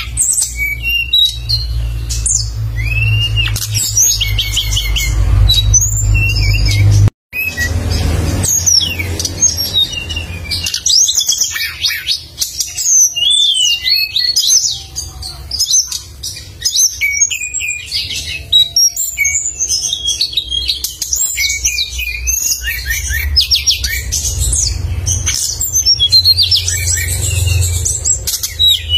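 A songbird singing without pause: rapid, sharp, high-pitched chirps, trills and whistled glides in quick bursts, over a low steady rumble. The sound drops out for an instant about seven seconds in.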